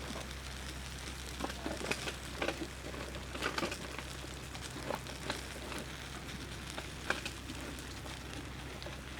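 Wood campfire crackling, with irregular pops and snaps over a steady low hum.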